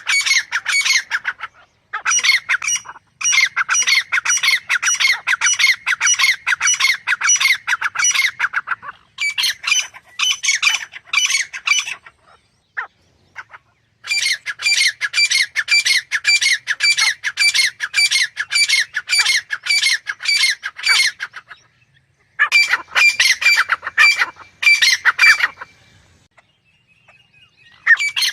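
Grey francolin calling: long runs of loud, harsh, rapidly repeated notes, about five a second, broken by several short pauses.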